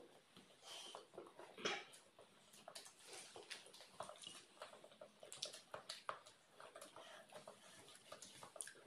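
Faint eating noises: chewing and mouth sounds from a mouthful of hard-boiled egg, with small scattered clicks and taps.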